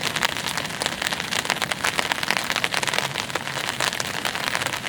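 Heavy rain falling, a dense steady stream of drops striking a surface close by.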